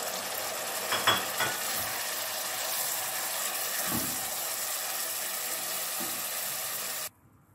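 Raw chicken mince sizzling in hot oil in an aluminium pan as it is stirred with a spatula, with a few knocks during the stirring. The sizzle cuts off abruptly near the end.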